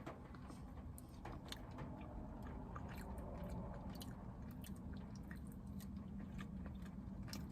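A person chewing a mouthful of Moroccan chicken and rice close to the microphone: scattered soft wet clicks over a low steady hum.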